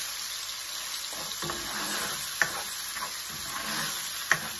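Raw marinated chicken pieces sizzling in hot oil in a nonstick wok as a spatula stirs them, being browned until the meat turns white. The steady sizzle is broken by two sharp clicks of the spatula against the pan, about two and a half seconds in and near the end.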